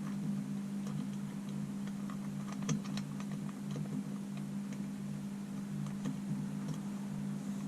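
Light metallic clicks and ticks of a crankshaft installer tool being screwed in by hand on a two-stroke engine case, with a short cluster of clicks about three seconds in. A steady low hum runs underneath.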